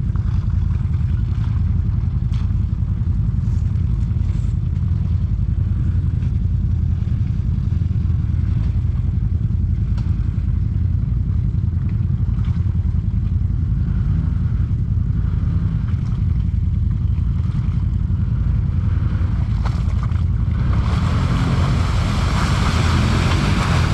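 Off-road side-by-side (UTV) engine running steadily while driving slowly over a trail strewn with sticks, with scattered clicks and knocks. A rushing noise joins in about three-quarters of the way through.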